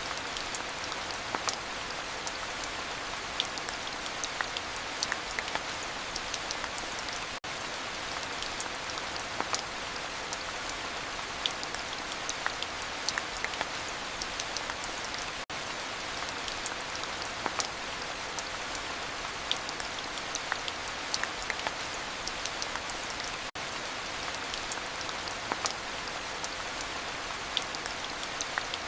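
Steady heavy rain: a dense, even hiss peppered with countless sharp drop ticks. Brief gaps in the sound come about every eight seconds.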